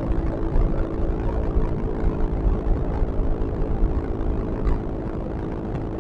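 Yamaha XMAX scooter's engine running steadily at cruising speed, with wind buffeting the microphone as the bike travels fast.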